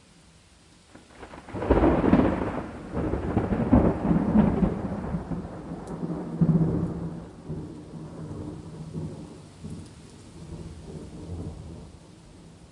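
A thunderclap breaks about a second and a half in and rolls on as a low rumble in several surges, fading away over about ten seconds, over faint steady rain.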